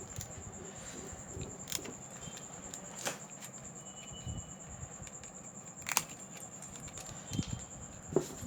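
Scattered light clicks and taps of small tools and parts being handled during a smartphone display repair, over a faint steady high-pitched whine.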